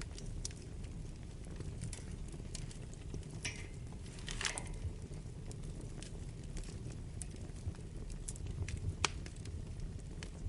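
Wood fire burning in a fireplace: a steady low rumble of flames with scattered sharp crackles and pops, a small cluster of them about halfway through.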